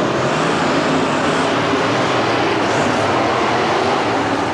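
Monster truck engines running loud and steady, a dense continuous engine noise.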